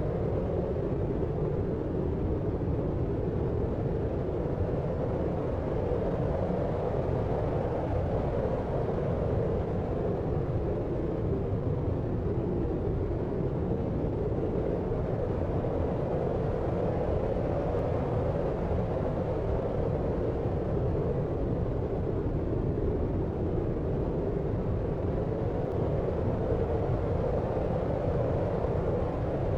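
Deep sleep noise: a steady, unchanging rush weighted toward the low end, with no separate events.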